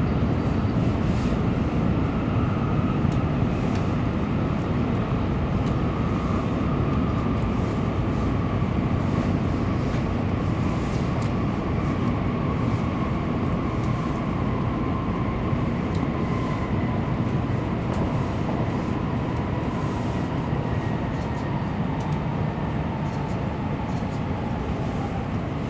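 Tokaido Shinkansen train heard from inside the passenger car: a steady rumble of running on the rails, with a thin whine that slowly falls in pitch as the train slows for its stop.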